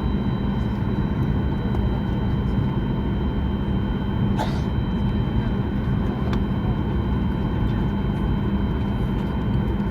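Steady airliner cabin noise heard from inside the cabin: a constant low rumble with a steady hum from the engines and air system. A brief faint chirp comes about four and a half seconds in.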